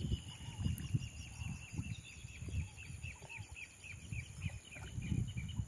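A bird singing a long series of repeated high whistled notes: it begins as a nearly unbroken note and breaks into separate down-slurred notes about three or four a second. Irregular low rumbling runs underneath.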